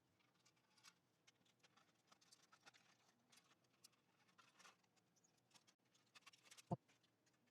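Faint light ticks and short scraping sounds of hand tools working the hose clamps on a motorcycle exhaust heat shield, with one sharper click near the end; otherwise near silence.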